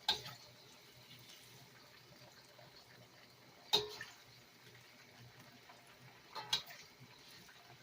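A few light clinks of kitchen utensils against cookware: three short, sharp knocks spaced a few seconds apart over a faint steady hiss.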